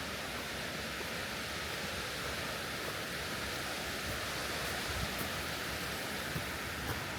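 Steady rush of a waterfall on a mountain stream, an even hiss of falling water that holds at one level throughout.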